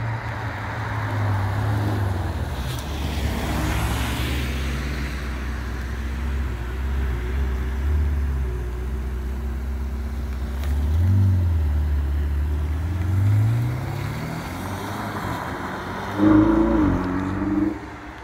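Ferrari 488 Spider's twin-turbo V8 running at low revs as the car rolls slowly past, its note rising and falling gently. About sixteen seconds in it revs up in a short, loud burst of acceleration that cuts off about a second and a half later.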